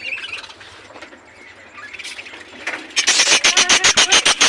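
Budgerigar giving a loud, rapid, rasping run of squealing calls for the last second and a half.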